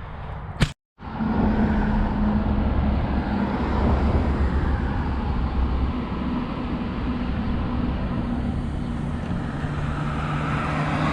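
Kawasaki Vulcan 1700 Vaquero's V-twin engine running on the move, with steady wind and road noise on the helmet mic. The engine note shifts lower near the end. About a second in there is a click and a brief dropout.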